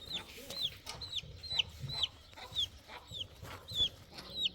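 A chick peeping over and over, short high notes that each drop in pitch, about two a second.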